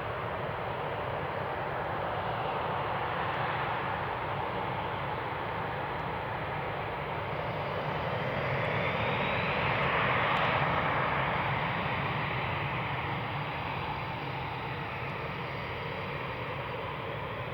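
Eurofighter Typhoon jets' twin EJ200 turbofans running at taxi power: a steady jet rumble and whine that swells to its loudest about ten seconds in, then eases off.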